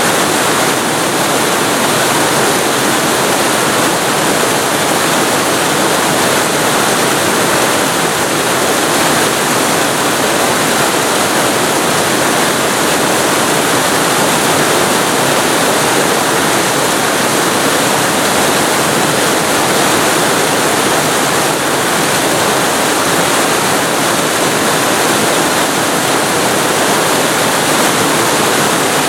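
Waterfall recorded very close to the falling water: a loud, steady, unbroken rush of water.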